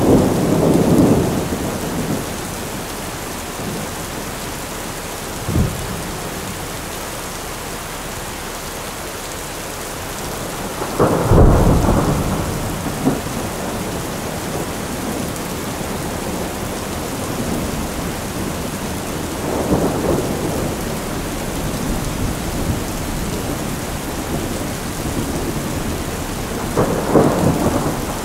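Steady rain with thunder rolling over it several times. The loudest, deepest rumble comes about eleven seconds in, with a short crack a few seconds earlier and lighter rolls near the start, around twenty seconds and near the end.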